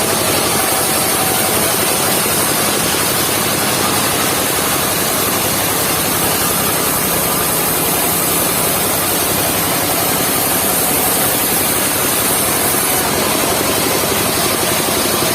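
Engine of a mobile circular sawmill running steadily and loudly, with no break or change in level.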